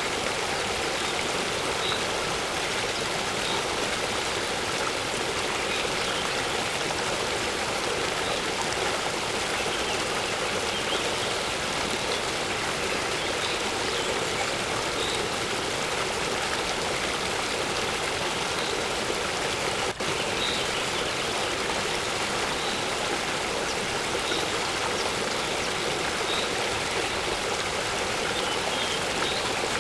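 Waterfall and stream water rushing steadily, with faint, scattered bird chirps over it. The sound drops out for a split second about two-thirds of the way through.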